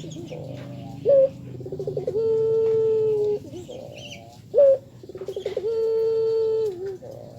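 Puter (Barbary dove) cooing: twice, a short sharp rising note followed by a stuttering start that runs into a long, steady, low coo dipping at its end. Faint high chirps from a small bird come between the calls.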